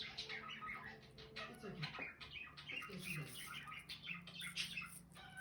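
Indian ringneck parrots making soft, quick chirps and chatter while eating.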